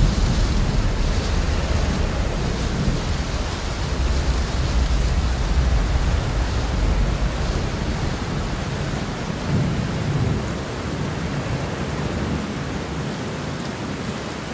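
Steady rain with rolling thunder, the deep rumble strong for most of the first ten seconds and then easing off, leaving mainly the rain.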